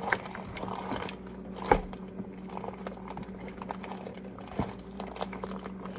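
Faint handling noises as chicken drumsticks are worked in a plastic bag of marinade: soft crinkling and small clicks, with a knock about a second and a half in and another near the end. A steady low hum runs underneath.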